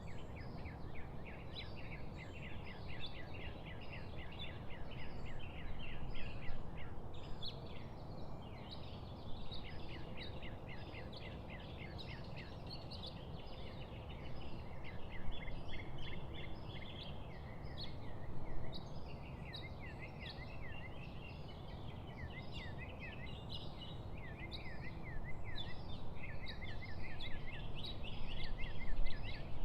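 A chorus of many small birds chirping and singing, with rapid short repeated notes, over a steady low background rush.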